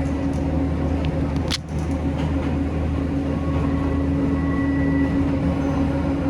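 Electric train running, heard from on board: a steady rumble with a constant low hum, and one short sharp click about a second and a half in.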